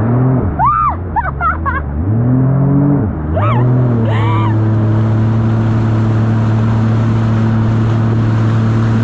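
Jet ski engine revving up and down for the first few seconds, then running at a steady speed. A few short, high-pitched cries sound over it during the revving.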